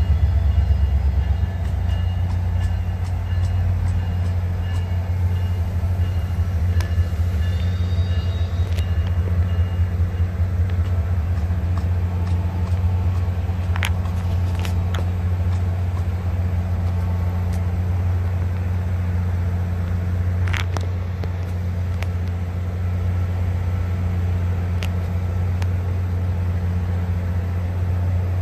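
A train at a railroad grade crossing with the gates down: a steady low drone throughout, with faint high tones during the first third and a few short sharp clicks.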